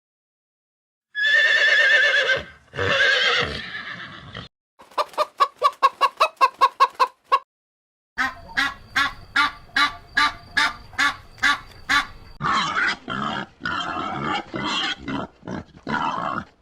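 Farm animals calling one after another. First come two long quavering calls, a horse whinnying. Then poultry clucks and calls in fast runs of short notes, keeping up a steady rhythm of two or three calls a second through the second half.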